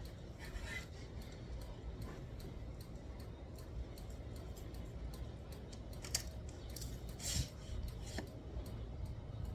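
Handling noise from a hammock stand being assembled: a few sharp metallic clicks and knocks as parts are fitted together, the loudest about six and seven and a half seconds in, over a low rumble.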